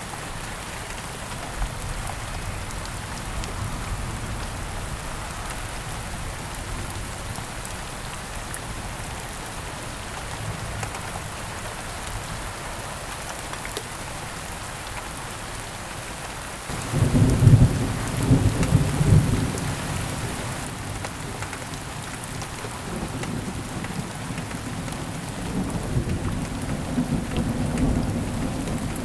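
Steady heavy rain, with a loud clap of thunder about halfway through that breaks in suddenly and rolls on as a lower rumble.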